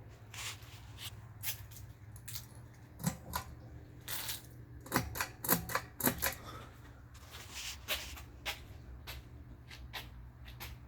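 Steady low hum, likely the ceiling fan's motor, with irregular sharp clicks and taps over it, clustered from about three to six seconds in.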